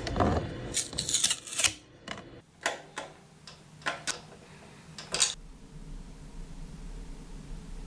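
A run of sharp clicks and knocks, dense at first and then spaced out over about five seconds, followed by a low steady hum.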